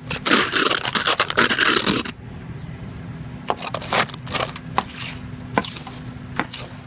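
Snow and ice being scraped, in a quick run of rough strokes for about two seconds, then lighter, sparser scrapes and sharp ticks.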